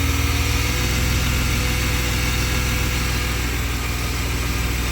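BMW M50B20 2.0-litre straight-six idling steadily, with no stumble or cut-out, after a loose air intake pipe that was leaking air was refitted tight.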